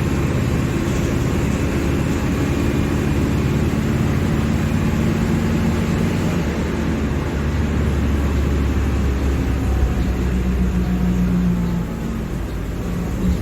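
Mercedes-Benz OF-1721 BlueTec 5 bus's four-cylinder turbodiesel engine running steadily under way, its loudness dipping slightly about two seconds before the end.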